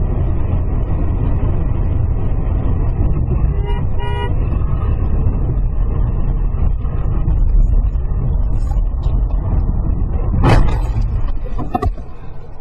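Motor vehicle running with a heavy, steady low rumble, heard at close range. A short horn toot comes about four seconds in, and a sharp bang or thump near the end.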